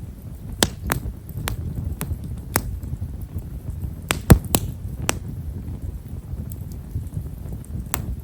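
Himeshara (Japanese stewartia) firewood burning in a campfire, crackling with small, sharp pops at irregular intervals over a steady low rumble of flame. The loudest pop comes about four seconds in.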